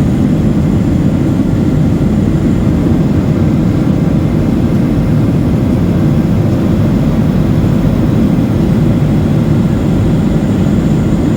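Steady cabin noise of a Boeing 737-800 in flight: an even, deep rumble from its CFM56 engines and the airflow over the fuselage.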